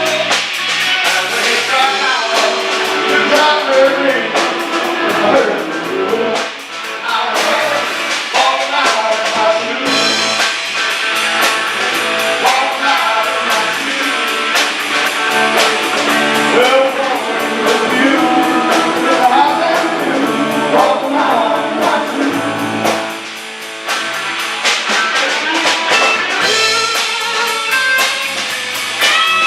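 Live band playing rock-and-roll with electric guitar and drums, a singer's voice over it.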